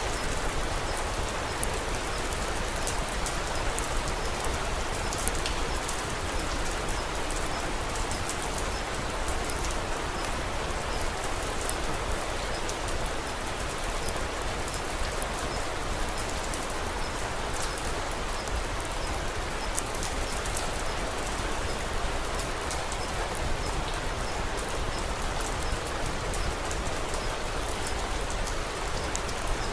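Steady rain falling, an even hiss of drops with scattered sharp ticks throughout.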